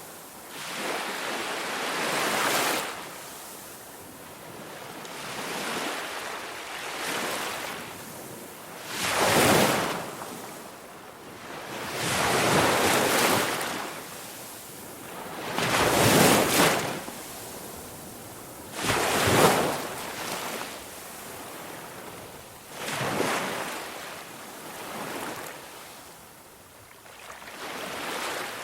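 Waves washing in one after another, each a swelling whoosh that builds and falls away, about every three seconds; the surges in the middle are the loudest.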